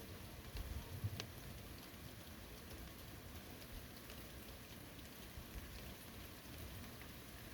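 Forest rain falling steadily, a soft even hiss with scattered louder drops and drips, a few of them around a second in.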